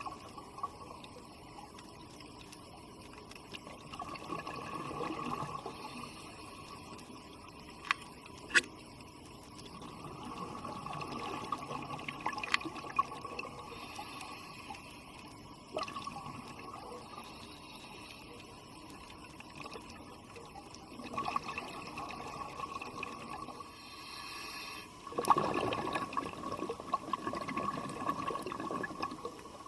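Underwater sound of a scuba diver's exhaled bubbles gurgling up in bursts every several seconds, the last burst the loudest, with a few sharp clicks in between.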